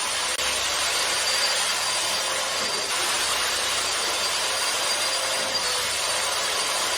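Carpet-cleaning machine running with a steady rushing hiss and a faint high whine.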